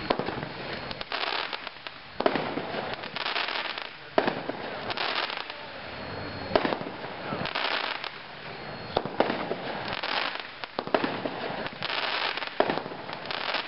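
A consumer firework cake, the 16-shot Super Stock Car, firing its shots about once a second, each a sharp launch report followed by a short burst of crackling hiss.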